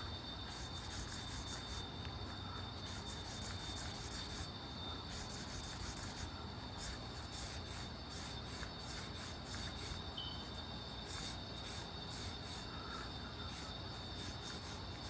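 Sketching strokes: a drawing tool scratching and rubbing in quick, irregular back-and-forth strokes, with a steady faint high whine underneath.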